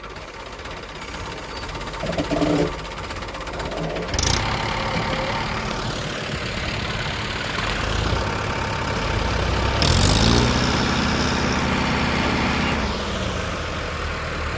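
Tractor engine running, picking up revs about ten seconds in, holding the higher speed for a few seconds and then easing off, with a sharp noisy burst about four seconds in.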